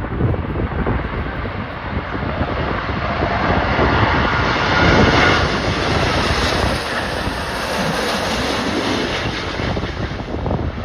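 Jet airliner on final approach passing close by. Its engine noise builds to a peak about five seconds in, drops in pitch as it goes past, then fades, with gusty wind buffeting the microphone.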